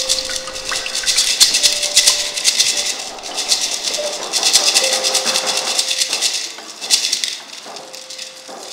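Shakers such as maracas rattling in swelling and fading waves to imitate rain, with a few long held notes from a pitched instrument.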